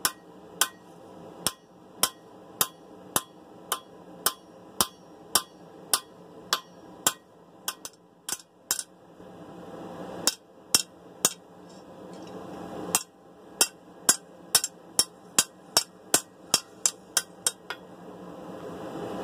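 Steel hammer striking a steel sword blade on an anvil, sharp ringing blows at about two a second, with a couple of short pauses.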